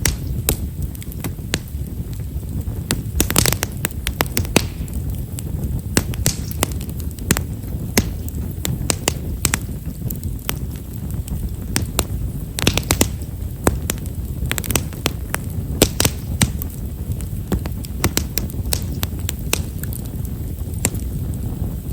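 Bonfire of Japanese stewartia (himeshara) firewood crackling with many small, irregular pops, some coming in quick clusters, over a steady low rumble.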